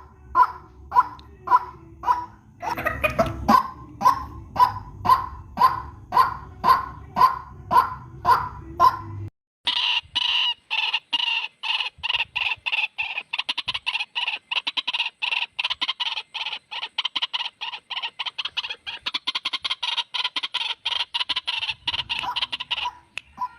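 White-breasted waterhen (ruak-ruak) calls from a bird-lure recording. First comes a steady series of repeated call notes, a little under two a second, over a low hum. About nine seconds in the track cuts abruptly to a faster, denser run of calls, several a second, which breaks off briefly near the end.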